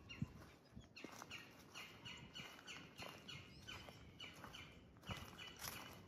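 A small bird repeating a short, downward-sliding chirp about three times a second, starting about a second in, over soft footsteps on a trail; the sharpest sound is one footfall thump just after the start.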